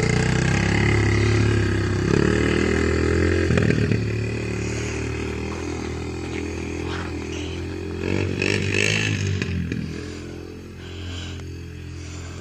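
ATV engine running, revving up about two and four seconds in, then getting quieter as it pulls away. It swells again with a rattle about eight seconds in before dropping back to a lower steady run.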